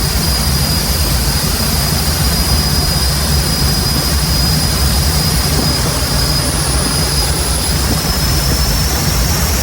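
Jet turbine engine in a mini truck running steadily, a loud even rush with a high whine that rises slightly in pitch near the end.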